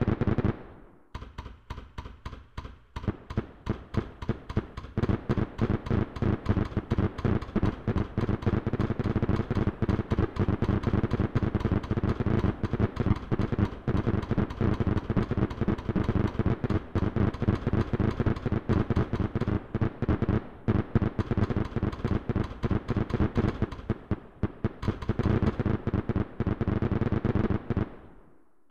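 Fireworks going off in a rapid, dense barrage of bangs and crackles, several a second. After a single bang at the start, the bangs come sparser for the first few seconds. They thin briefly near the end, then pick up again.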